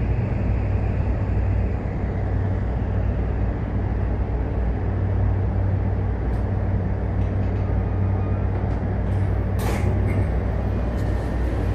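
Inside a Toei 5500-series electric train with a Mitsubishi full-SiC VVVF drive, arriving at a station: a steady low hum with broad running noise. A short hiss of air, typical of brake release, comes about two seconds before the end.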